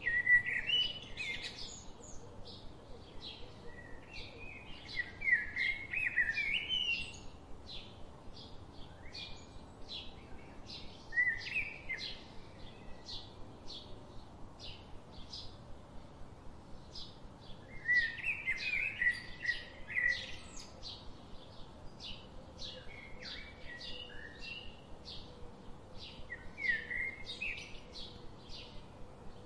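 Birds singing: short warbling song phrases every few seconds over a steady run of quick, evenly spaced high chirps.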